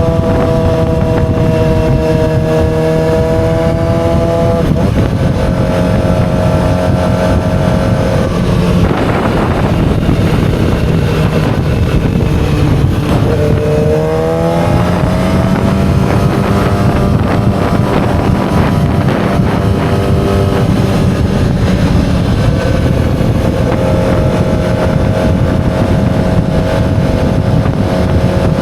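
The inline-four engine of a 2007 Yamaha YZF-R6 running under load at steady revs. The pitch dips about a third of the way in, then after a short break it rises in a smooth climb in revs before settling steady again.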